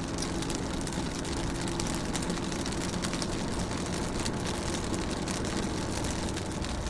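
Rain pattering on a car's roof and windows, heard from inside the car: many fine, irregular drop ticks over a steady low rumble.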